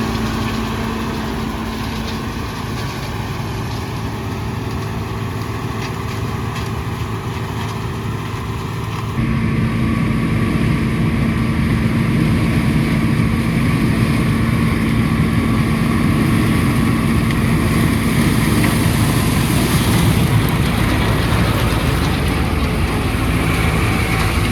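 John Deere 6600 combine running steadily with an even mechanical hum. About nine seconds in the sound jumps abruptly louder and rougher.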